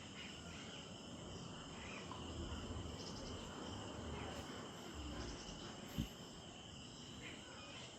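Insects chirping steadily, with short trills repeating every couple of seconds, and a single brief thump about six seconds in.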